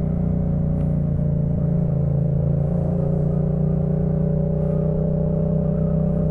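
Yamaha MT-07's 689 cc 270° parallel-twin engine through a Jeskap K4 full aftermarket exhaust, heard from the rider's seat while riding at steady, nearly constant revs.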